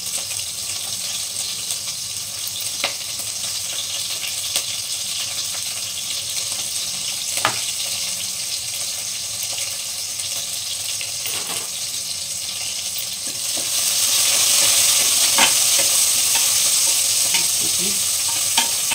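Sliced onions and green chillies sizzling in hot ghee in an aluminium pressure cooker, a steady frying hiss with a few light clicks. The sizzle gets louder about two-thirds of the way through, and a wooden spatula stirs the pan near the end.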